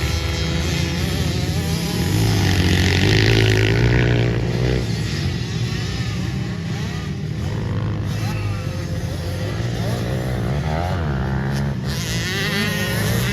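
Pit bike engines running and revving, the pitch rising and falling again and again as the riders work the throttle.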